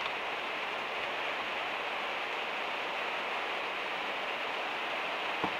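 Steady rain hitting the van's metal roof, an even hiss heard from inside the van, with one small click near the end.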